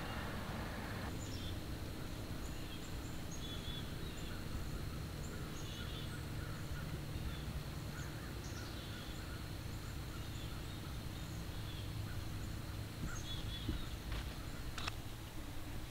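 Field-edge ambience: scattered short bird chirps and calls over a steady low rumble, with one sharp click near the end.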